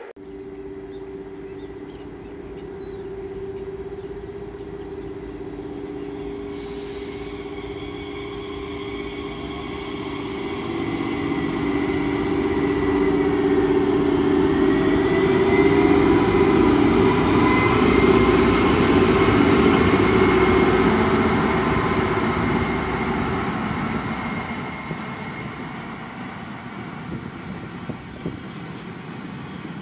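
DB class 298 diesel-hydraulic locomotive hauling a freight train of covered wagons past. Its engine note is steady and grows louder to a peak a little past halfway, then fades as the wagons roll by on the rails.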